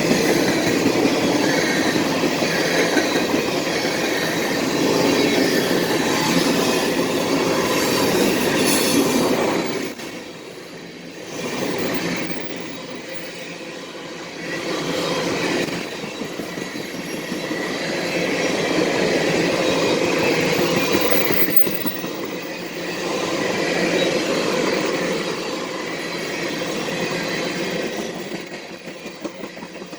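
CSX freight train's cars rolling past on the track, a steady rumbling clatter that dips quieter for a few seconds about ten seconds in, then swells again.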